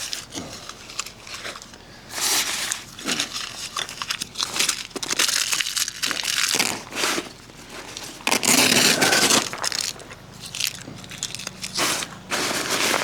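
Irregular crinkling and rustling in uneven bursts, like material being handled.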